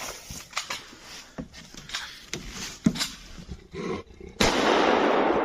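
Scattered clicks and knocks, then from about four seconds in a loud, rough animal roar that starts suddenly.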